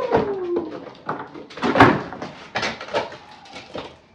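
Irregular sharp knocks of bricks being struck and pried off a fireplace front, about one every half second to second, the loudest a little under two seconds in. A drawn-out falling vocal tone fades out in the first half second.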